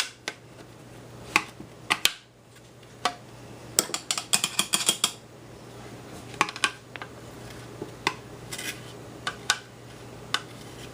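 Spoon clicking and scraping against a cup while ice cream is eaten: scattered sharp clicks, with a quick flurry of them about four to five seconds in.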